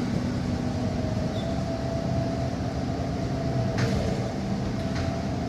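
Steady engine and road rumble heard from inside a moving city bus, with a faint steady whine and two short rattles, about four and five seconds in.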